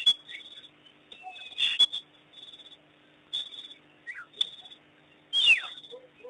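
African wild dogs twittering: repeated short high-pitched chirps and squeals, one sliding steeply down in pitch near the end.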